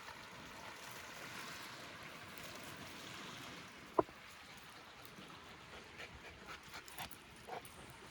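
Lake water lapping steadily, with one short sharp knock about four seconds in and a few faint ticks near the end.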